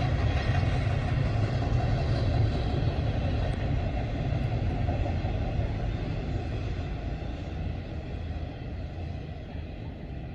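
Freight train rumbling past, the steady rumble slowly fading as the train moves away.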